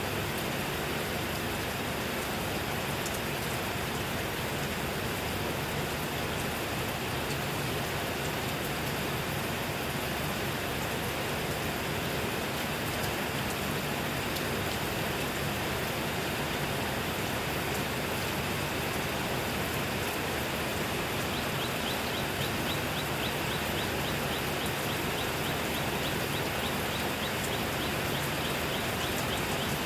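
Steady heavy rain falling, an even dense patter with no breaks. About two-thirds of the way through, a faint, rapid, high ticking joins in behind the rain.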